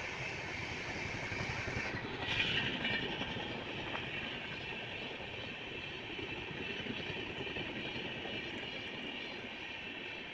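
Indian Railways passenger train coaches passing at speed without stopping: a steady rumble and rush of wheels on the rails, briefly louder about two and a half seconds in.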